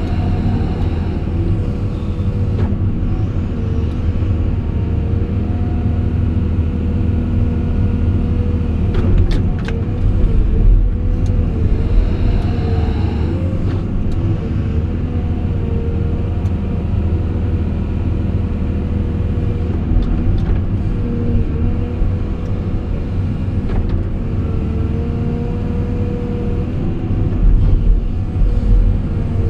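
Caterpillar 349E excavator's diesel engine running steadily with a low rumble, and a whining tone over it that wavers in pitch at times as the machine is worked. There are a few sharp clicks about a third of the way in.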